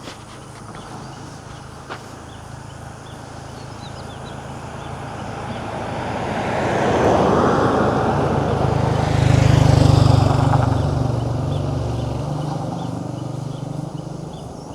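A motor vehicle approaching and passing close by. Its engine and tyre noise swell to a peak about seven to ten seconds in, then fade away.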